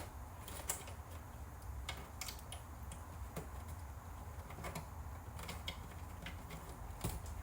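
Scattered light clicks and taps, irregularly about a second apart, from small metal parts and tools being handled as a metal piece is worked loose from a VCR's circuit board, over a low steady hum.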